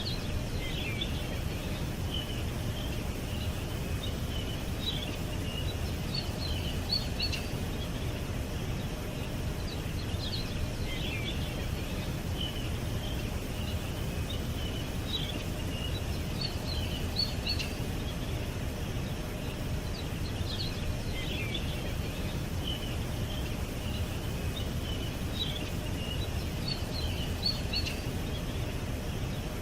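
Small birds chirping and twittering in short bursts every few seconds, over a steady low background rumble.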